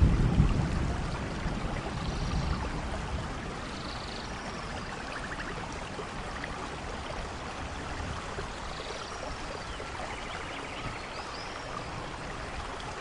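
Steady rainfall with a low rumble of thunder in the first second or two that fades away, and occasional short high chirping calls over the rain.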